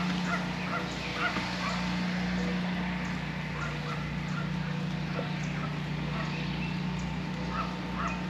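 Birds calling in short, repeated chirps and caws over a steady low hum.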